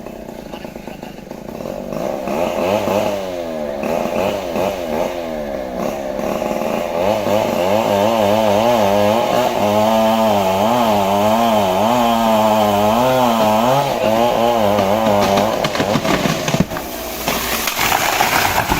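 Stihl two-stroke chainsaw running under load while cutting into a large trembesi trunk. Its engine pitch wavers up and down as the chain bites the wood. It drops away about two-thirds of the way through, and a burst of rushing noise follows near the end.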